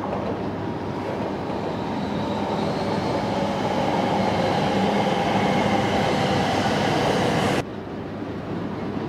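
Shinkansen train at the platform, its electric running gear giving a steady whine that grows louder over several seconds. It cuts off suddenly near the end to a quieter, more distant rail rumble.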